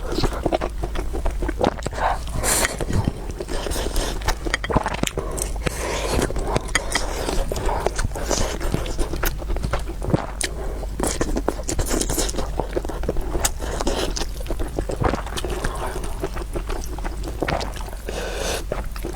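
Close-up eating of noodles and soup: wet slurping and chewing, with many short sharp clicks throughout.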